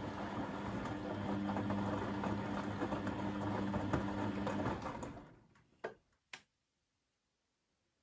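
Beko WMB 71643 PTE washing machine running with a steady hum and a dense rattle, winding down and stopping about five seconds in, followed by two sharp clicks.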